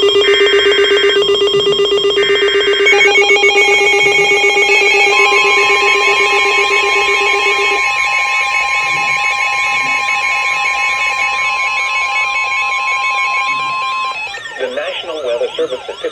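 Several weather-alert receivers going off together, signalling a new warning. Short NOAA Weather Radio data bursts come at the start, then a loud stack of alert tones with a fast pulsing beep and steady higher tones. Near the end this changes to a warbling tone.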